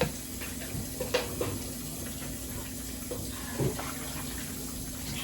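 Kitchen tap running into the sink, with a few short clinks and clatters of dishes being handled.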